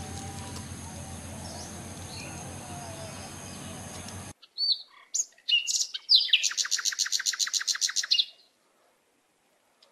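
Bird calls: a few sharp chirps and short whistled glides, then a loud, fast trill of about ten notes a second lasting about two seconds. Before the calls, a steady low hum with hiss runs for about four seconds and cuts off suddenly.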